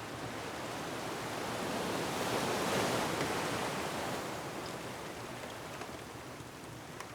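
Ocean wave surging onto the shore, swelling to a peak about three seconds in and then washing away, over a steady background hiss.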